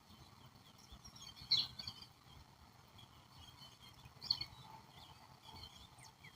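Wild birds chirping and calling in short high notes, loudest about a second and a half in and again after four seconds, over a faint low background noise.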